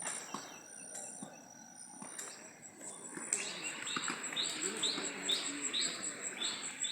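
Birds calling outdoors. From about three seconds in, one bird repeats a short falling call about every half second, over a high, rapidly pulsing trill and a steady hiss.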